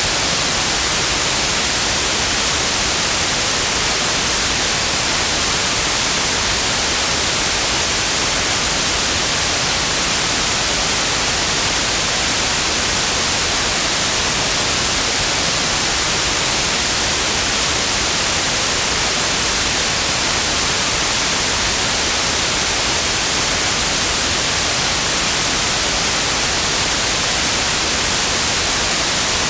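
Steady, unchanging white noise: an even hiss across the whole range, brightest in the highs.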